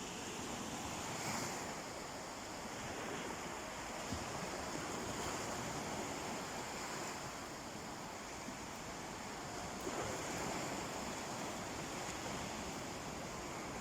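Sea waves washing onto the shore in a steady hiss, with a few soft swells in loudness, and some wind on the microphone.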